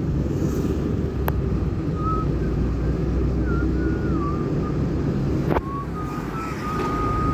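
Steady low rumble of a car's engine and tyres, heard from inside the moving car on a highway. A faint, thin wavering whistle-like tone runs through the middle, and there is a sharp click about a second in and a knock a little after halfway.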